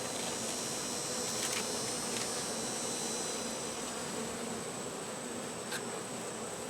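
Honey bees buzzing steadily around an open hive.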